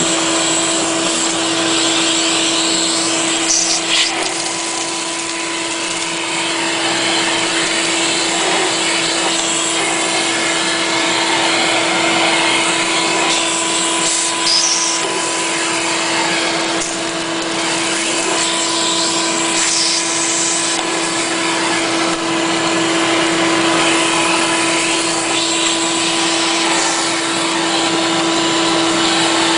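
Vacuum cleaner running steadily with a constant whine, sucking soot and junk out of a furnace's fire tubes, with a couple of brief knocks and rattles along the way.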